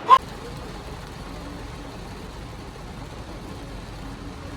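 Steady hiss of heavy rain, with a single sharp click right at the start.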